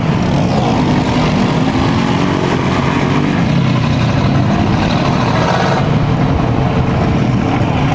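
Truck engine revving hard under load, its pitch wavering up and down, over a continuous rush of noise.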